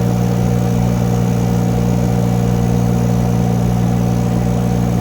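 Engine of a 2-ton mini excavator running at a steady, unchanging pitch while the machine travels uphill on its tracks in low range.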